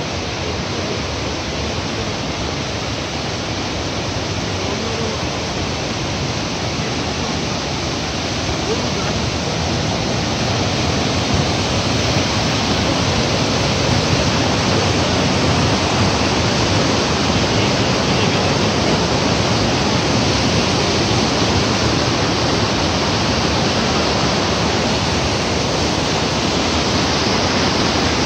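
Waterfall's steady rush of falling water, a little louder from about ten seconds in.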